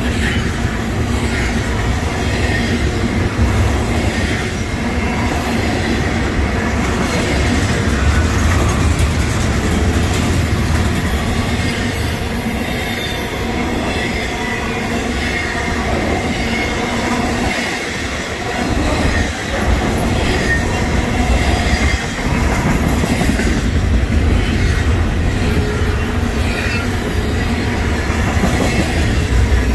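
Double-stack intermodal freight train rolling past: a steady rumble and rattle of well cars and steel wheels on the rails, with a thin wheel squeal running under it.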